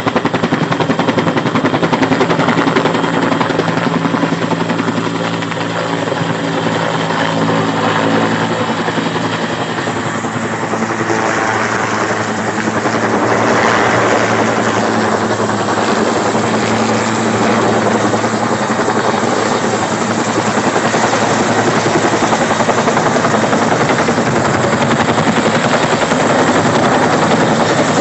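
Firefighting helicopter hovering close by to fill its water bucket, its rotor beating fast and steadily over the turbine whine. It eases off slightly about a third of the way in, then grows louder again.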